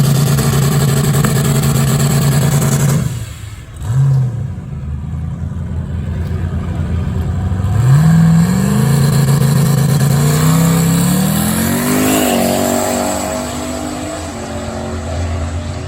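Drag racing car engine held at high revs for about three seconds, then cut off sharply, with one quick blip. About eight seconds in it launches, its pitch rising steadily for about four seconds before it fades and drops away as the car runs off down the strip.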